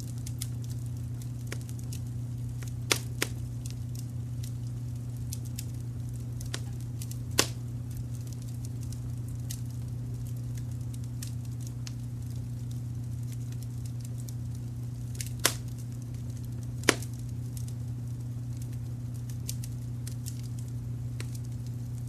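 Wood fire crackling: a scatter of small crackles with a few sharp pops, about 3, 7, 15 and 17 seconds in. Under it runs a steady low brown-noise rumble.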